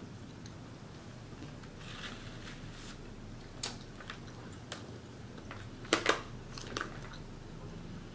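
Close-up chewing of a mouthful of Caesar salad: soft mouth sounds broken by a few sharp crunches, the loudest about six seconds in.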